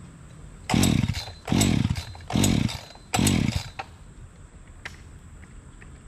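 Two-stroke chainsaw being pull-started four times in quick succession, the engine turning over briefly on each pull and dropping away without catching. The owner puts this down to the saw being flooded after its switch was knocked off by mistake.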